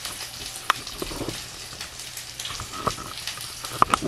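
Ground-beef patties frying in hot grease in a pan, a steady crackling sizzle, with a few sharp clicks and knocks, the loudest two near the end.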